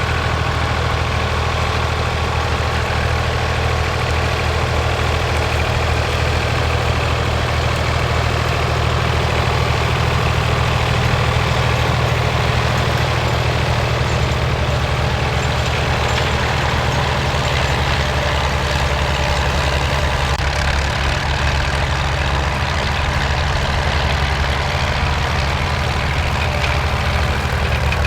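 Vintage Ford-built tractor engine running steadily at an even, low pitch while working a cultivator.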